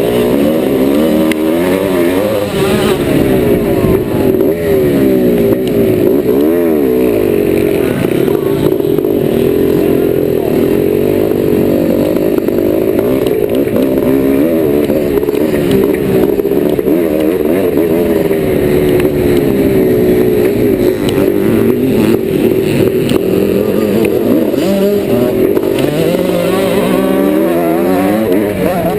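1990 Yamaha YZ490's single-cylinder two-stroke engine, loud and continuous, revving up and down over and over as the bike is ridden hard round a motocross track.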